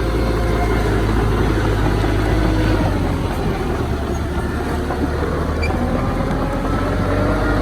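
Heavy diesel engine of earthmoving machinery running steadily, its engine speed rising slightly in the last couple of seconds.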